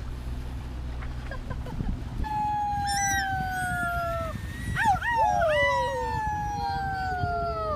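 Drawn-out howling cries: one long howl sliding slowly down in pitch, a few short yelping rises and falls about five seconds in, then another long falling howl near the end.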